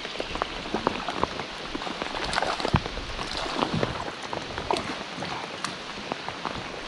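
Heavy rain falling steadily, with many sharp ticks of single drops.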